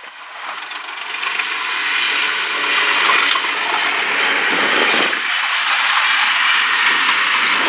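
A train passing close by: a steady metallic rattle of wheels and running gear on the rails that grows louder over the first two seconds, then holds.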